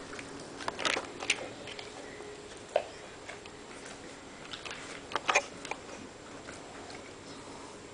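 Sleeping Newfoundland dog breathing faintly, with a few sharp clicks and smacks: two about a second in, one near three seconds and a close pair a little after five seconds.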